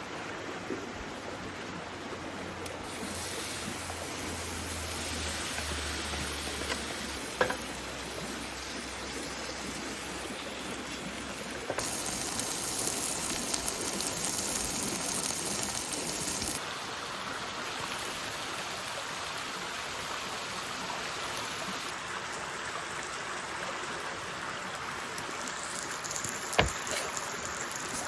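Steady hiss of water, louder and brighter for about four seconds near the middle, with a few faint clicks.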